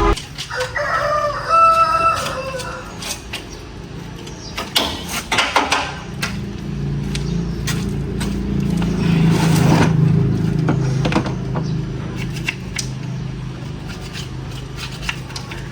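A rooster crowing once near the start, followed by scattered knocks and clicks and a steady low hum that sets in partway through.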